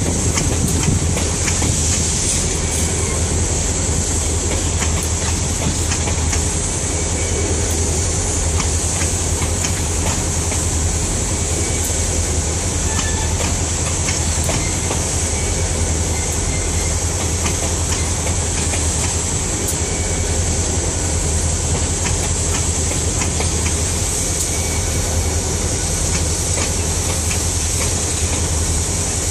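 Freight train of grain hopper wagons rolling past at a steady speed: continuous wheel rumble, the clickety-clack of wheels over rail joints, and a steady high hiss over it.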